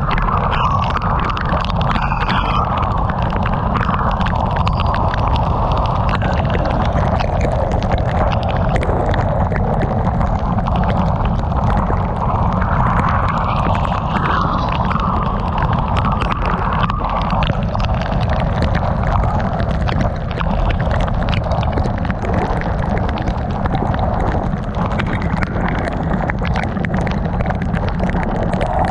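Heavy rain pelting a moving car in a storm: a steady, dense rush full of fine drop hits over a low road and wind rumble.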